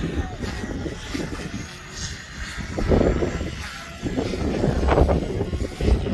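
Gusty wind buffeting the microphone in uneven surges, loudest about three and five seconds in, over a small electric Goosky S2 RC helicopter in flight.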